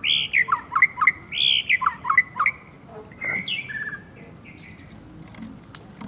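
A songbird calling with a quick run of short whistled chirps and harsher notes, most of them in the first three seconds, then a few faint scattered notes.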